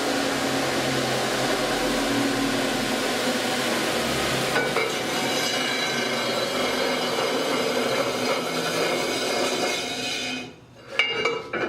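Delta 31-730 belt and disc sander running under its 1.5 hp electric motor, a steady hum with a whine. The sound changes about halfway through and stops about ten seconds in, followed by a couple of short knocks.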